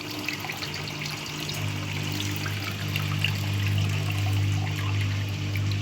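Washing machine drain pump running with a steady hum that grows louder about a second and a half in, while waste water pours and splashes out of the drain hose.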